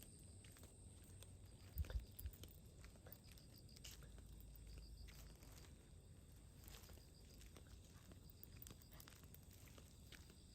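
Near silence: faint outdoor ambience with insects chirping softly, scattered light clicks, and two low thumps about two seconds in.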